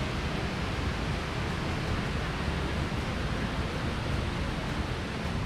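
Waterfall rushing, a steady noise heavy in the low end.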